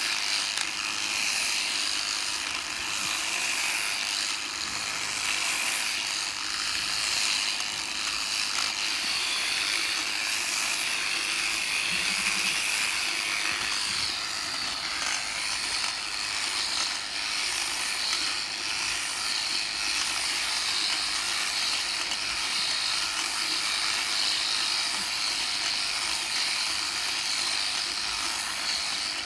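Electric sheep-shearing handpiece running steadily while a sheep is shorn.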